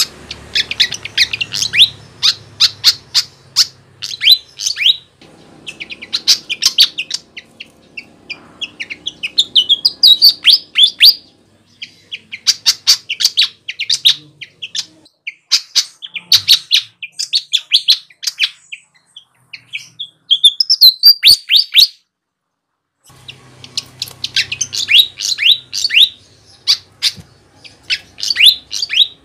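Flycatcher (sikatan) singing: rapid runs of sharp, high chirping notes in bursts, breaking off briefly about three-quarters of the way through.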